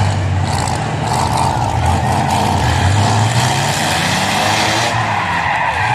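Demolition derby trucks' engines running and revving, a steady low engine drone.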